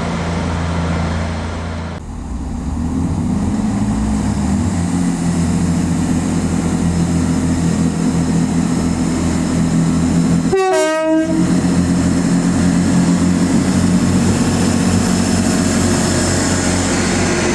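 Diesel train engine running with a steady low drone, growing slowly louder, with a brief break about ten and a half seconds in.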